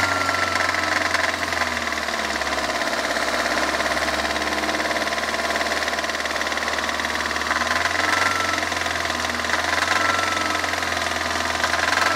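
Car engine running at steady revs with a fast, continuous metallic knocking in it: an internal engine knock of the kind being diagnosed, heard at the revs where the engine knocks.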